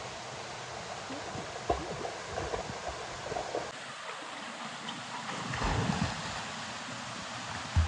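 Steady rushing hiss of falling water from a jungle waterfall, with a few soft knocks, the loudest near the end.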